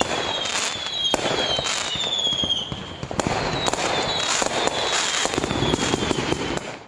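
Aerial sky-shot fireworks going off: sharp bangs at irregular intervals over a continuous crackle, with several falling whistles in the first few seconds. The sound cuts off suddenly at the end.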